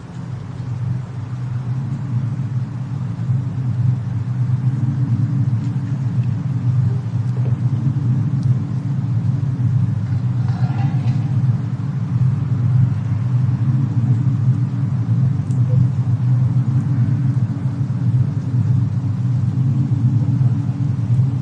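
Fireplace and snowstorm ambience: a steady low rumble that fades in over the first couple of seconds, with a few faint crackles.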